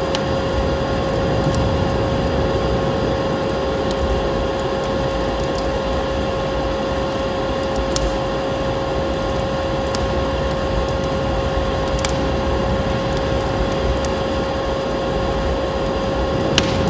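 Wood fire crackling, with a few sharp pops spread through, over a steady roar of blizzard wind and a constant hum.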